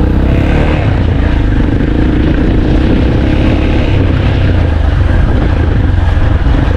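Motorcycle engine running steadily under way, with a slight drift in pitch.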